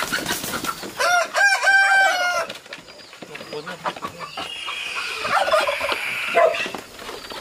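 A rooster crows once, a loud drawn-out call starting about a second in, with other quieter chicken calls a few seconds later.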